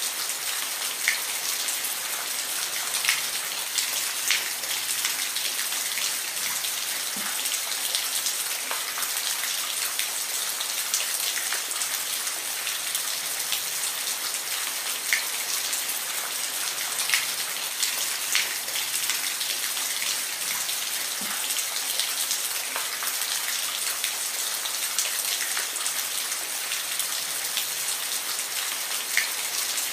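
Steady rainfall: an even hiss of rain with individual drops ticking sharply here and there on a nearby surface.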